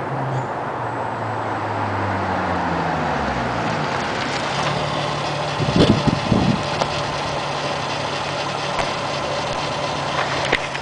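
VW GTI 24-valve VR6 engine heard through a 2.5-inch Autotech/Magnaflow exhaust as the car drives. The engine note falls in pitch over the first few seconds, then runs steadier, with a brief loud burst about six seconds in.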